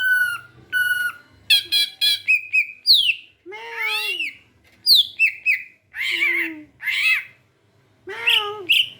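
Songbird calling busily: short level whistled notes and quick falling whistles, mixed with arching, mew-like calls.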